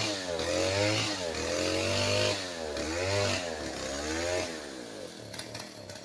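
Two-stroke chainsaw cutting into a tree at high revs, its pitch dipping under load and recovering several times, then dropping off to a lower, weaker running sound near the end.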